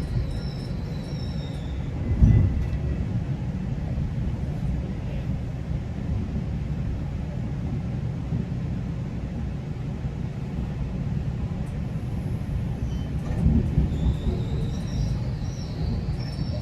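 GO Transit commuter train running on the rails, a steady low rumble with two short heavier jolts, one about two seconds in and one near the end.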